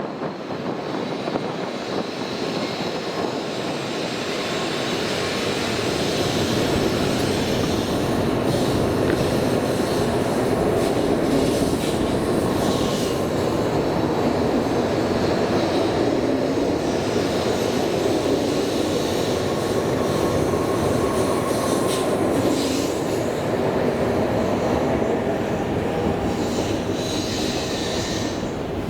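A Shinkansen train running along the platform: a steady rumble of wheels and running noise that swells over the first several seconds, holds, and eases off near the end.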